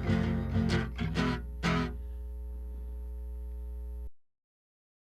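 Guitar playing a few plucked notes that ring out over a steady low electrical hum, then the recording cuts off abruptly to silence about four seconds in.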